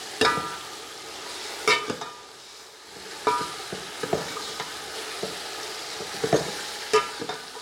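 Raw chicken pieces sizzling in hot ghee in a steel pot while a metal spoon stirs them. The spoon knocks and scrapes against the pot several times, and some of the knocks ring briefly.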